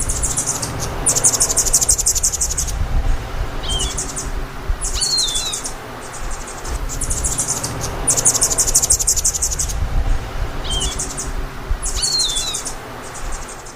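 Hummingbird calling in repeated bouts of very high, buzzy trills with short falling chirps between them, over a steady low rumble.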